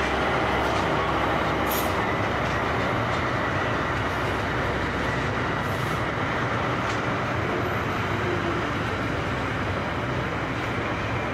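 Container flat wagons of a freight train rolling past: a steady rumble of steel wheels on rail, with a few sharp clicks and a faint thin squeal.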